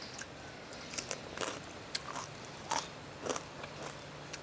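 Close-up crunching as crispy pork rinds (khaep mu) are bitten and chewed, a run of sharp, irregular crunches starting about a second in.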